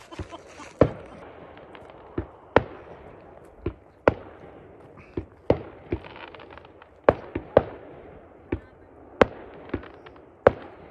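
Fireworks going off: more than a dozen sharp bangs at uneven intervals, roughly one a second.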